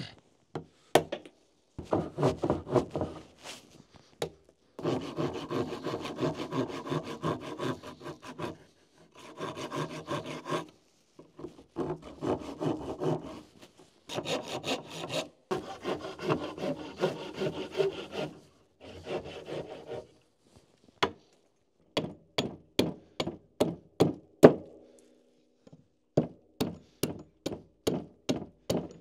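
Plane-tree wood being roughed out by hand: long runs of rapid scraping strokes, with short pauses between them. Later these give way to separate sharp knocks on the wood, about two a second.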